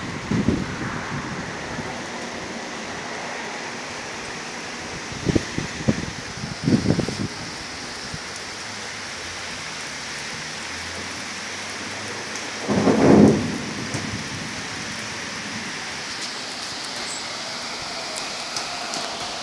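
Steady rain falling during a thunderstorm, with a few short low rumbles of thunder, the loudest about 13 seconds in.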